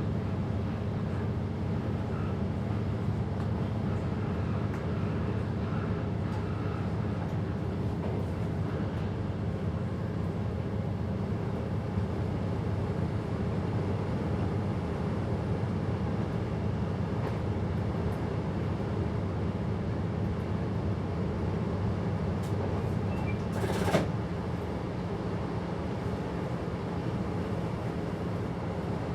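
A train running, heard from inside the driver's cab: a steady low drone of motors and wheels on rail. A single short, sharp noise comes near the end, and the drone is a little quieter after it.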